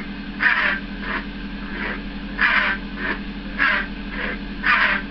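Lightsaber sound font on an Ultra Sabers Obsidian sound board: a steady electric hum with a string of about seven swing swooshes over the hilt's swings, some deep and some high-pitched.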